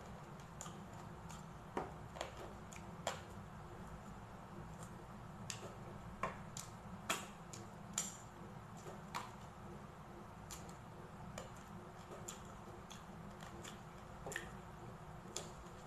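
Close-miked eating sounds: irregular sharp crunches and clicks of chewing crispy fried pork belly and rice eaten by hand, over a steady low hum.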